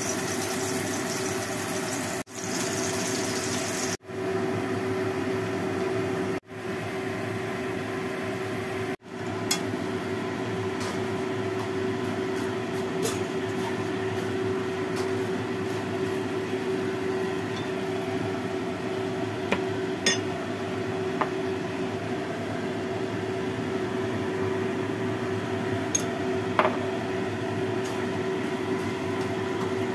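Food sizzling in hot oil in a wok, first a hamburger patty and then udon noodles with vegetables being stir-fried, over a steady hum. Occasional light clinks of chopsticks against the pan, and four brief breaks in the sound in the first nine seconds.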